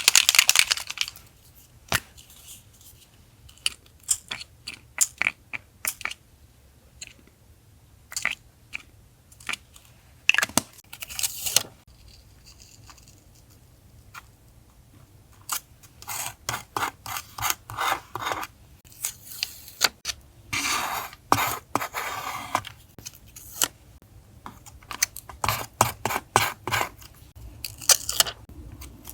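Close-up paper-crafting sounds: paper and stickers being handled, rustled and peeled, with scattered clicks and scissor snips, over a faint steady low hum.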